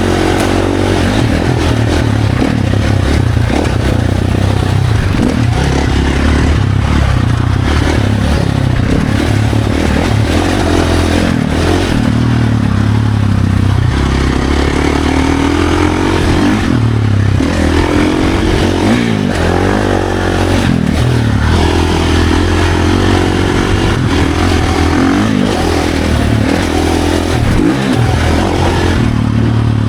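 Dirt bike engine revving up and down continuously as it is ridden hard on a trail, its pitch rising and falling with throttle and gear changes, with clattering and scraping from the bike over rough ground.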